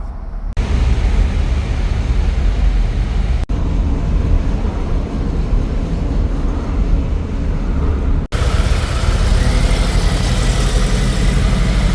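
Motor vehicle running with a heavy low rumble and road or wind noise, cut into three abrupt segments; the last segment carries more hiss.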